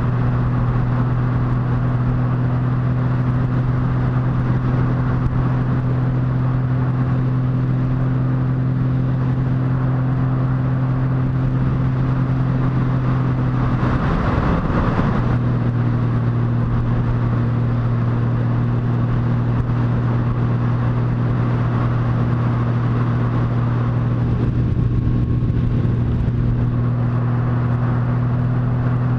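Motorcycle engine running at a steady cruising pitch under an even rush of wind and road noise, as heard from the bike while riding. About halfway through, the note breaks up for a second or so, then settles back at the same pitch.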